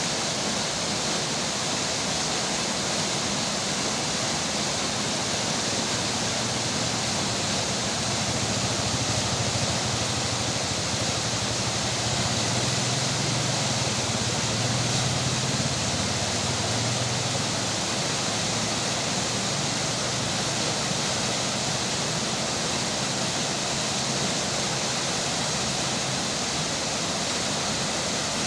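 Steady rushing hiss of flowing river water and falling rain, with a low rumble that swells in the middle and fades again.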